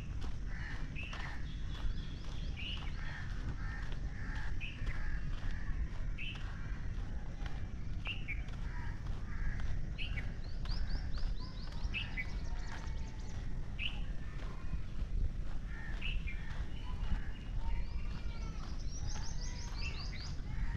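Birds calling in the trees: scattered short chirps, with a rapid run of repeated high notes about halfway through and again near the end, over a steady low rumble.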